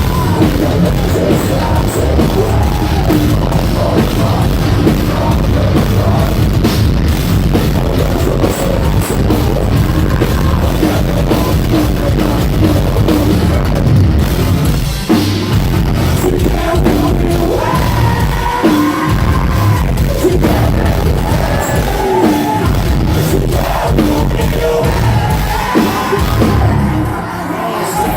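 Live metalcore band playing loud: heavy distorted guitars, bass and drums, with sung vocal lines over them in the second half and a short drop in the mix near the end.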